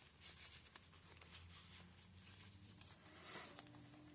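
Faint, soft rustling and rubbing of paper as the pages and cards of a handmade paper journal are handled and turned, in a few short brushes.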